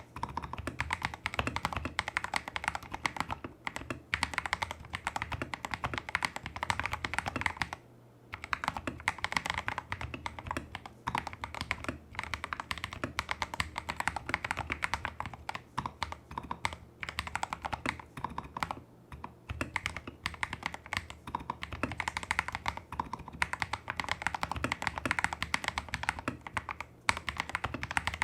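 Continuous fast typing on a Tester68 custom mechanical keyboard with lubed Holy Panda clone tactile switches, XDA-profile keycaps, a taped PCB and modded stabilizers: a dense stream of key clacks with a brief pause about eight seconds in.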